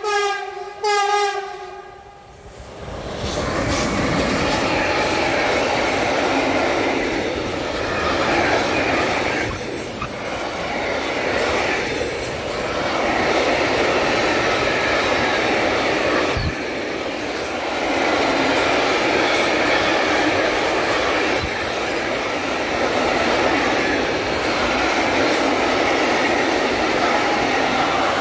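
A freight locomotive's horn sounds two short blasts at the start. Then a long container freight train passes close by with a steady, loud rumble and clatter of wagon wheels on the rails.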